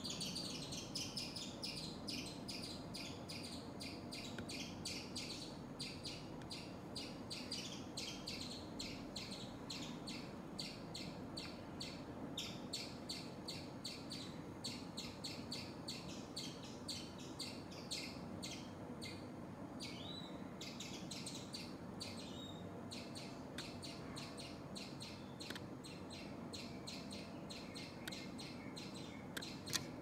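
A bird chirping in quick, repeated short high notes, several a second, with a brief pause around the twenty-second mark. A single sharp knock comes near the end.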